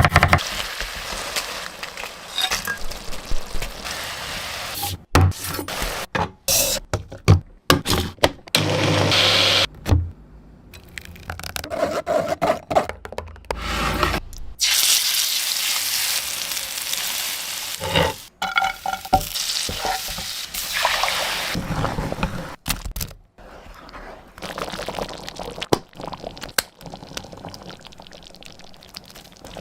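Cooking sounds in a run of short clips cut one after another: liquid pouring, stirring, and food sizzling in a pan, with occasional knocks of utensils.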